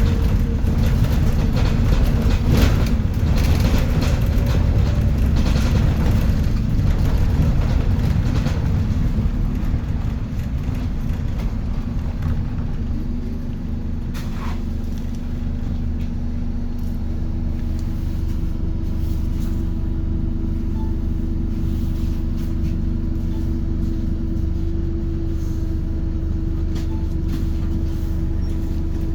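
Scania K230UB city bus heard from inside: diesel engine and road rumble, louder for the first ten seconds or so, then settling into a quieter, steady engine hum. A single click sounds about fourteen seconds in.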